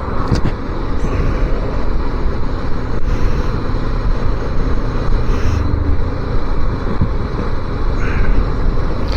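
250cc motorcycle riding along, its engine running under a steady rush of wind noise on the microphone.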